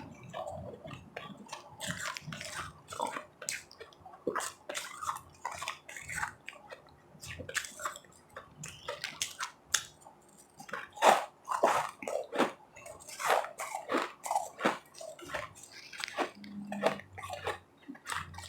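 Close-miked chewing of ice: a quick, irregular run of sharp, wet crunches as the ice is bitten and ground between the teeth.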